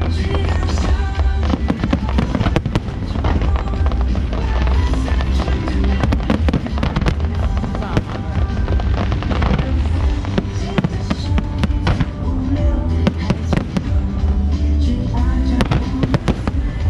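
Fireworks going off in quick succession, with many sharp bangs and crackles over a low rumble, while music plays over loudspeakers.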